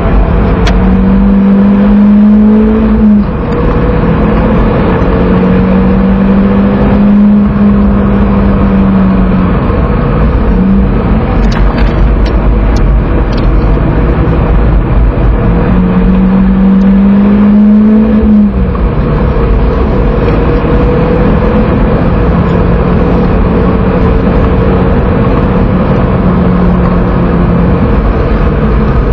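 Seat Leon 1.8T 20V turbocharged four-cylinder engine heard from inside the cabin, run hard on a race track. Its note climbs and then drops away three times, over steady road and wind noise.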